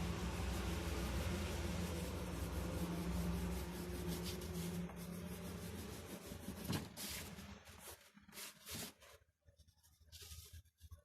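A drawing tool scratching across paper in strokes, over a steady low hum. The hum fades out past the middle, leaving short, separate scrapes.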